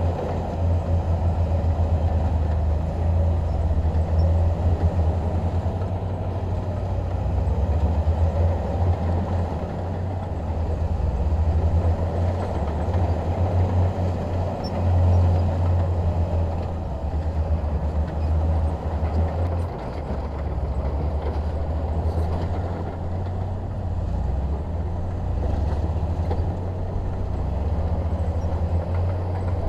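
Bulldozer's diesel engine running under load, a steady low drone whose loudness swells and dips as the machine works.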